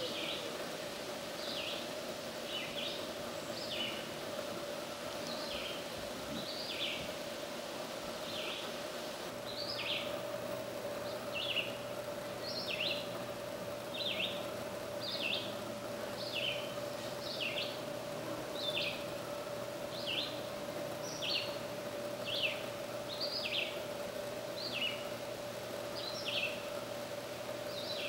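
A small bird calling repeatedly in short, falling chirps, about one a second and often in pairs, over a steady low hum.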